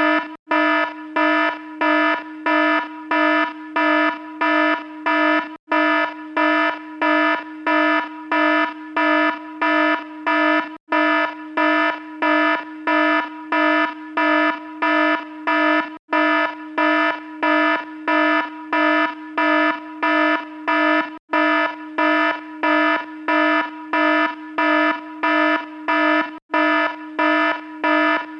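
Electronic alarm beeping: a harsh, buzzy tone repeating steadily at about one and a half beeps a second.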